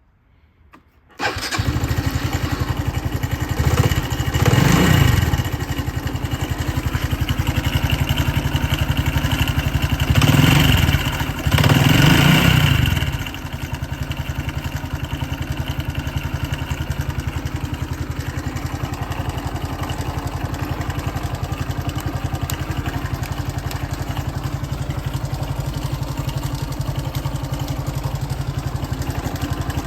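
Honda Cross Cub 110's single-cylinder four-stroke engine starting about a second in, then briefly revved twice, the second time for longer, before it settles into a steady idle.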